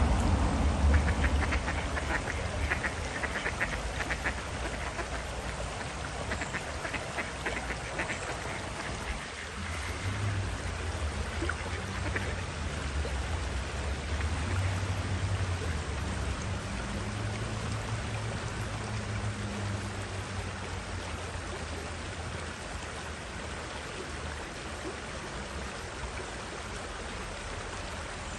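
Ducks quacking in quick runs during the first eight seconds or so, over a steady low rumble and hiss.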